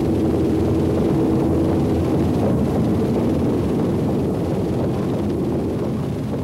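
Loaded iron-ore hopper wagons rolling past on the rails in a steady rumble, with a held tone that dies away about two seconds in. The rumble begins to fade near the end as the train moves on.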